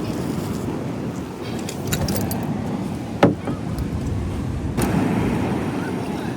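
Steady wind rumble on the microphone, with a few light clicks and one sharp knock about three seconds in.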